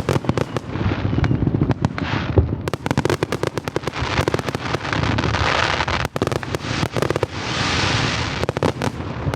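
Aerial fireworks finale: a rapid, continuous barrage of booms and crackling bursts, with stretches of hissing crackle around the middle and near the end.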